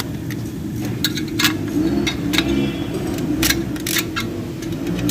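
Sharp metal-on-metal clinks of hand tools and parts, about five in a few seconds, as a dual clutch transmission is taken apart, over a steady low background hum.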